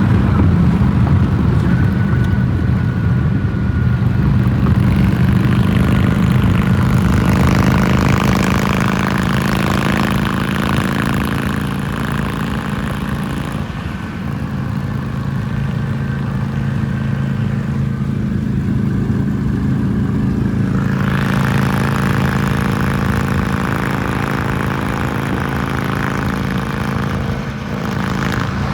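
Harley-Davidson Iron 883's air-cooled V-twin running at a steady idle through Screaming Eagle exhausts, a loud, even low rumble that holds one pitch throughout.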